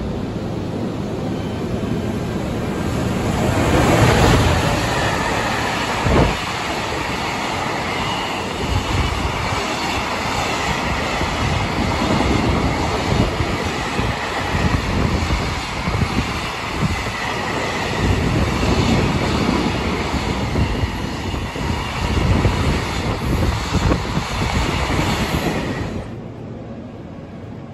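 JR Freight EF210 'Momotaro' electric locomotive and its train of mostly empty container flatcars passing through a station at speed, loudest as the locomotive goes by about four seconds in. Then a long run of clattering wagons with steady wheel clicks over the rail joints and a faint wheel squeal, which cuts off sharply near the end.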